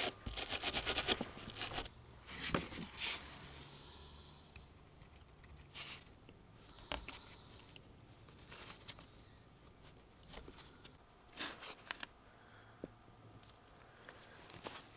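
Workshop handling sounds: a quick run of clicks lasting about a second at the start, then scattered knocks and short rustles of parts and tools being handled.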